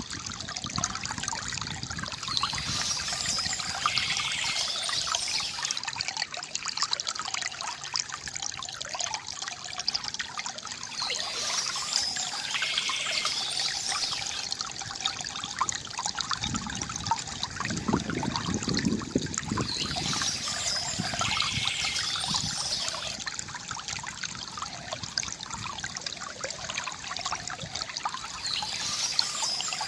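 Water trickling and gurgling steadily from a bamboo fountain, with a brighter, hissier wash returning about every nine seconds and a fuller, deeper gurgle for a few seconds past the middle.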